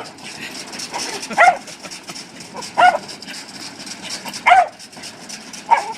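A dog barking: four short, single barks about a second and a half apart.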